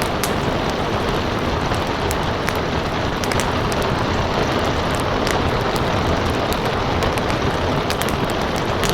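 Steady rain, with the scattered small pops and crackles of a fireplace fire.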